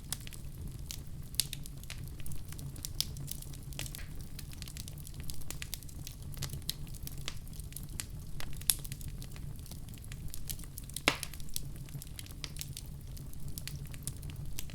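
Wood fire crackling in a fireplace: a steady low rush of flames under frequent small snaps and pops, with one sharper pop about eleven seconds in.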